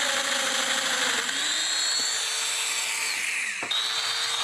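Domino loose-tenon joiner running and plunge-cutting mortises in wood, a high motor whine over cutting noise. About three seconds in the whine falls in pitch, then it is back at full speed.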